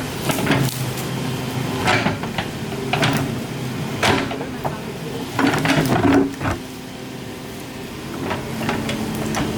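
Excavator engine running steadily, with repeated sharp knocks and scrapes of metal working against soil and rock; the knocks fall most thickly in the first two thirds.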